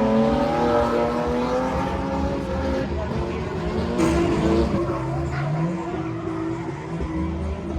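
Car engines running and revving at high rpm, with tyre squeal.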